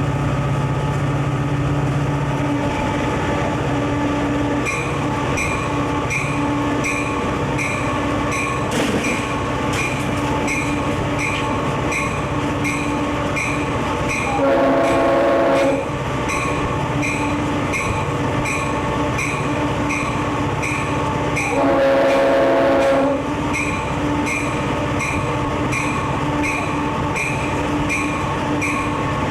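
Conrail diesel locomotive running steadily, its bell ringing about one and a half strokes a second from about five seconds in. Its air horn sounds two long chords, about halfway through and again some seven seconds later.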